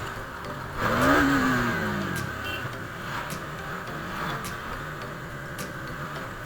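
Road traffic with vehicle engines running. About a second in, an engine swells louder, its pitch rising and then falling as it revs or passes close by.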